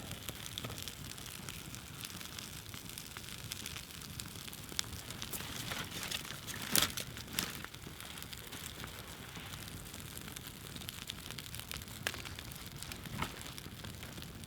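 Wood campfire crackling, with scattered small pops and a louder cluster of sharp pops about seven seconds in.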